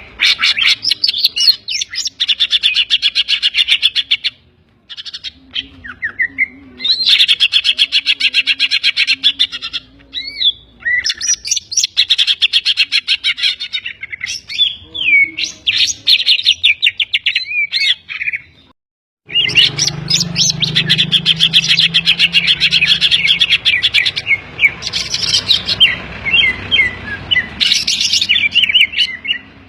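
Green leafbird (cucak ijo) singing a loud, fast chattering song in long bursts of rapid trilled notes mixed with whistled gliding phrases, with mimicked calls of other birds (kapas tembak, kingfisher) worked in. The song breaks off briefly twice, about four seconds in and near two-thirds of the way through.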